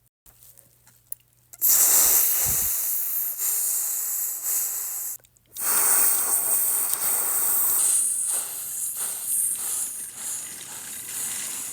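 Steam hissing as steam engines start away with a heavy train. It begins about a second and a half in and breaks off briefly a little past the middle.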